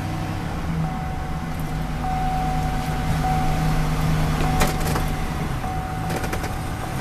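2009 Chevrolet Silverado 1500 engine idling steadily just after a start-up, a low even hum with a faint steady whine above it and a few light clicks.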